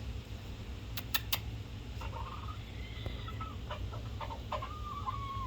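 Bantam chickens clucking: short calls from about two seconds in, then a longer held call near the end. Three sharp clicks about a second in.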